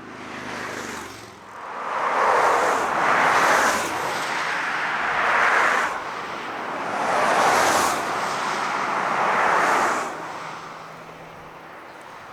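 Union Pacific Big Boy 4014 steam locomotive going by, heard as a rushing noise that swells and fades about four times, each swell a second or two long.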